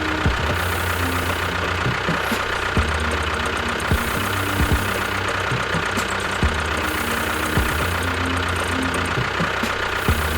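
Small engine of a DIY mini tractor or mini bulldozer running steadily with a knocking beat.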